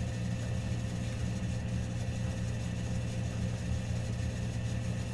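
Steady low mechanical hum with a faint constant higher tone, even in level throughout, like a machine running in the room.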